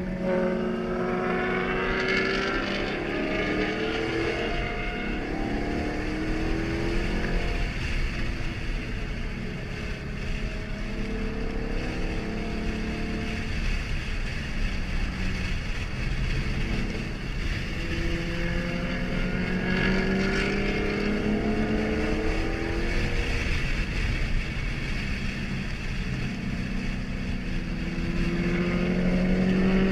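2013 Ford Mustang GT's 5.0 V8 engine pulling through the gears several times, its pitch climbing and then dropping back at each shift, over a steady bed of road and wind noise.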